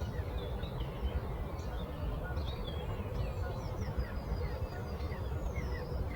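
Several songbirds chirping and twittering, short quick notes overlapping throughout, over a steady low rumble of outdoor ambience.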